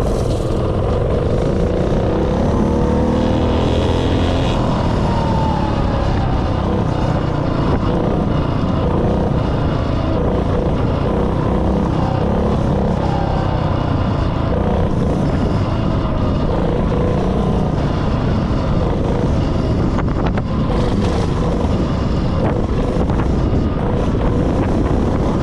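196cc single-cylinder mini bike engine running under throttle, its pitch rising and falling as it revs, with wind on the microphone.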